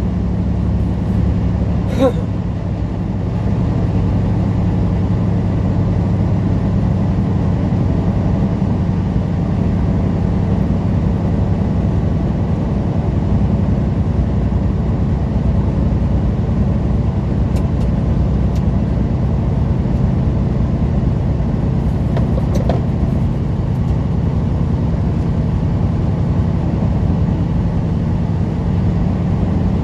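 Semi truck's diesel engine and road noise at a steady cruise, heard from inside the cab as a steady low drone. A short click about two seconds in, and a few faint ticks later.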